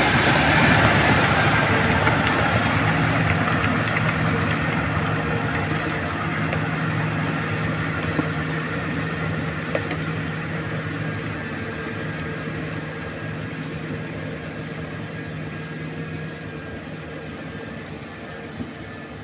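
Tractor engine running steadily, growing gradually fainter as the tractor moves away.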